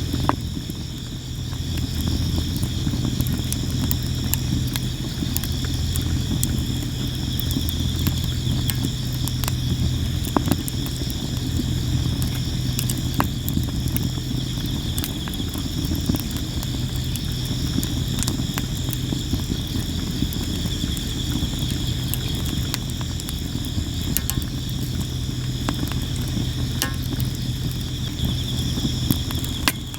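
Sawara cypress wood burning in a campfire, crackling and popping with frequent sharp snaps at irregular intervals. Crickets sing steadily in the background, over a low steady hum.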